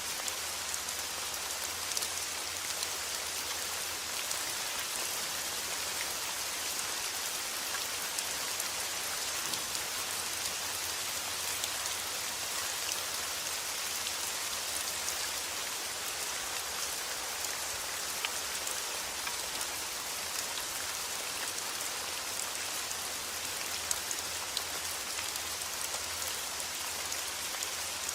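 Steady rain falling, a dense patter of drops over a constant hiss.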